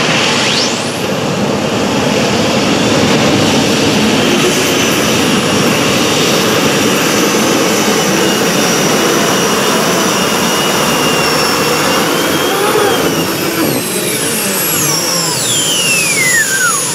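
Pulling tractor or truck engine running hard at full throttle under load, with a high turbocharger-like whine that sweeps up sharply in the first second. Near the end the whine glides steadily down as the power comes off.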